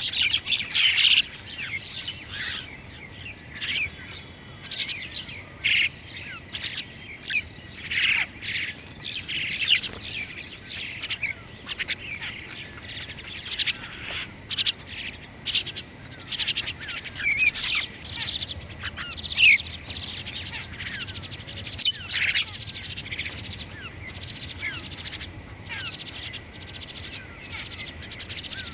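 Wild songbirds chirping and calling: many short, high chirps and quick sweeping notes, overlapping and coming in quick succession.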